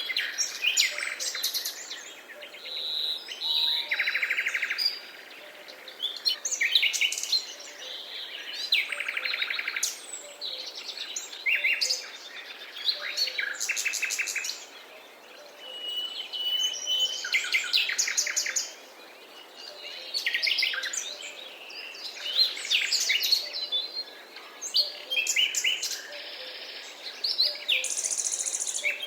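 Forest ambience of several songbirds singing and calling in overlapping phrases, with rapid trills and a short held whistle about halfway through.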